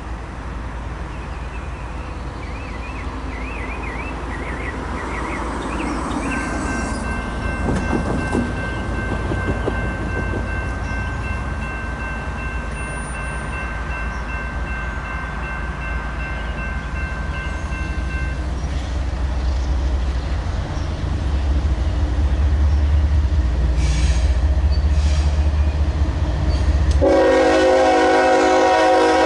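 Train approaching, its diesel locomotive rumble building over the second half, then a loud air horn blast begins near the end.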